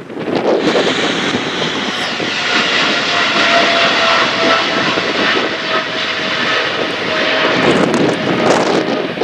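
Jet engines of a FedEx Boeing 777 freighter passing by, a broad rumble with a steady whine on top.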